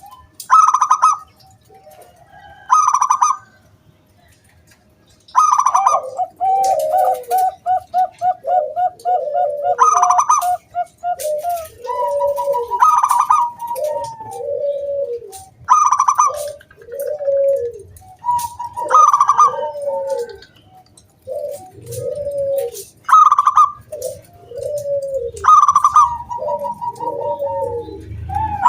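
Zebra dove (perkutut) song: a loud, clear, higher call every few seconds. A rapid staccato rattle of notes runs from about six to eleven seconds in, then a long run of lower, rounded coo notes comes about one a second.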